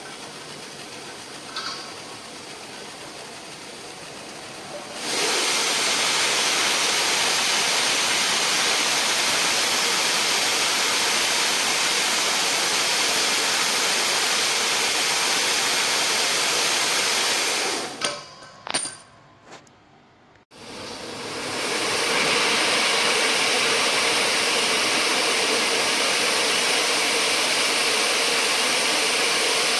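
Compressed nitrogen hissing as it is blown through a choked deep-freezer cooling coil to flush it. The hiss swells loud about five seconds in, stops for a couple of seconds with a few clicks past the middle, then starts again.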